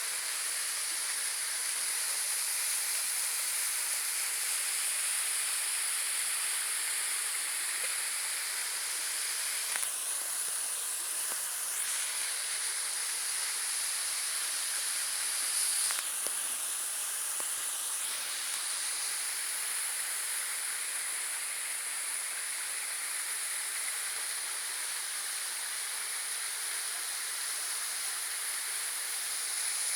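Steady hiss of rushing water from a waterfall or stream, with the sound shifting briefly about ten seconds in and again around sixteen seconds.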